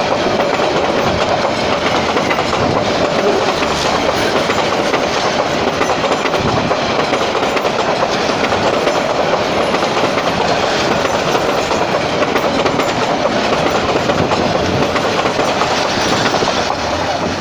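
Joyantika Express passenger train rushing past at speed, its coaches' wheels clattering steadily over the rail joints.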